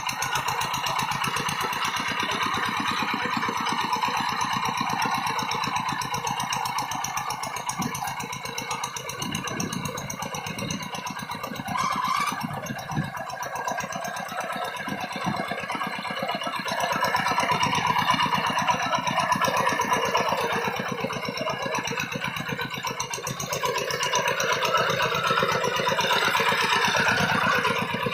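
A rice-field tractor's engine runs continuously, getting louder for a few seconds partway through and again near the end.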